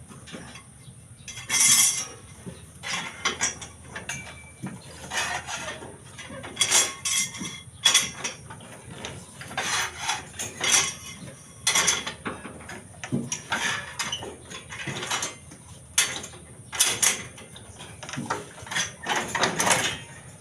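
Irregular metallic clinks, clanks and scrapes of steel rebar being worked by hand into stirrup rings, several knocks every second or two.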